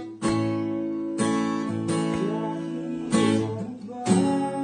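Acoustic guitar strumming chords, a fresh strum about once a second, accompanying a Tagalog love song in a pause between sung lines.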